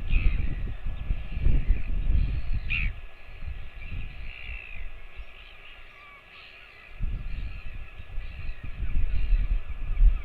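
A few short bird calls over a low, gusty rumble of wind or handling noise on the microphone.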